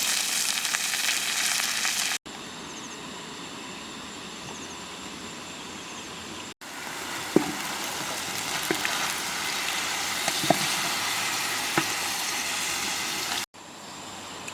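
Food sizzling over an open fire, a steady hiss with several sharp pops and crackles in the second half. The hiss changes level abruptly a few times where the shots are cut together.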